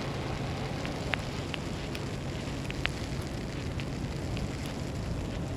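Snowstorm street ambience: a steady rushing of wind and snow over a faint low city hum, with a few scattered sharp ticks.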